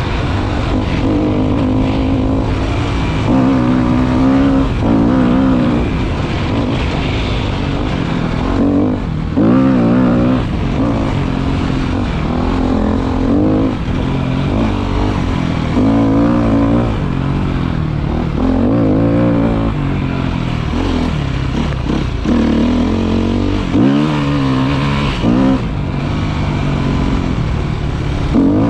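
Motorcycle engine under way, its revs rising and falling again and again with throttle and gear changes.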